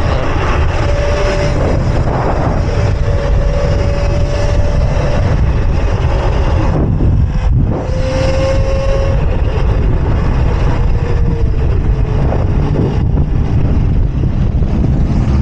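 Wind buffeting the microphone while riding an electric mini bike, over a steady whine from its electric motor; everything dips briefly about seven and a half seconds in.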